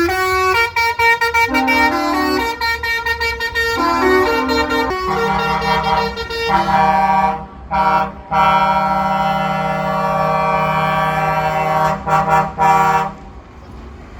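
Truck air horns: a quick tune of changing notes for about five seconds, then long, deep, chord-like blasts with a few brief breaks, stopping shortly before the end.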